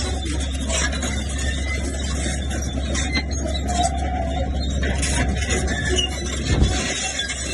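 Crawler bulldozer at work: its diesel engine running steadily, with squealing from the steel tracks.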